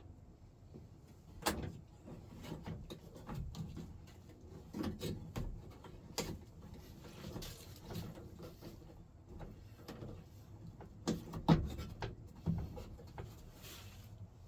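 Scattered clicks and clunks of hand work on a Chevrolet square-body truck door and its latch parts, the loudest knock about eleven and a half seconds in.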